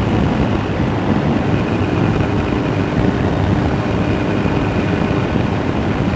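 Kawasaki ZX-9R sportsbike under way: a steady engine drone under wind and road rush, picked up by a voice recorder's microphone inside the rider's jacket pocket.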